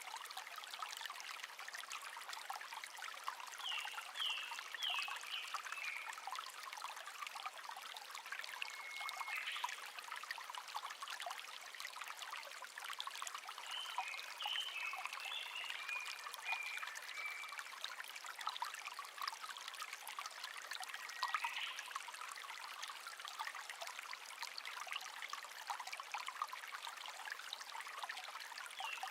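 Shallow brook trickling and burbling steadily, with short high chirps from small wild birds a handful of times (about 4, 9, 14–17 and 21 seconds in).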